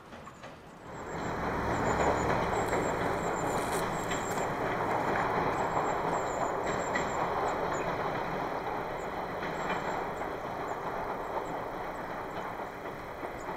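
Steam-hauled passenger train rolling away along the track, its coach wheels rumbling on the rails. The rumble swells up about a second in and slowly fades.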